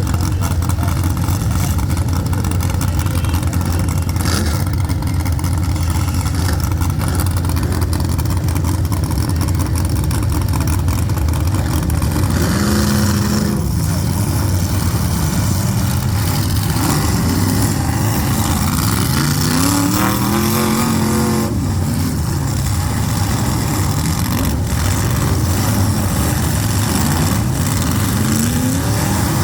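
Engines of full-size demolition derby cars running hard, with several revs that rise and fall in pitch and a few sharp knocks.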